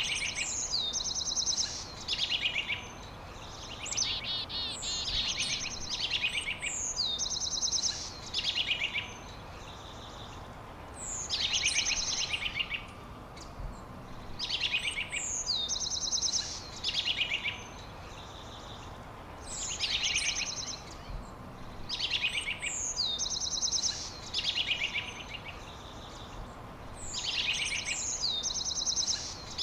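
A songbird singing the same short, high phrase again and again, each a quick falling whistle running into fast buzzy trills, repeated about every second or two in bouts with brief pauses, over a steady faint background hiss.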